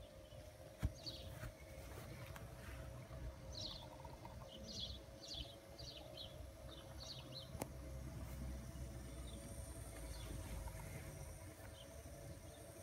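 A bird chirping repeatedly in short calls, busiest from about four to seven seconds in, over a steady hum and a low rumble. A sharp click about a second in, and a fainter one later.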